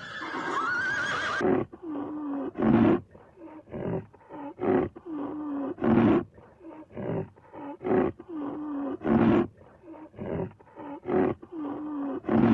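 A horse's whinny ends about a second and a half in. A rhinoceros then grunts over and over, about once a second, with a low wavering groan between the grunts.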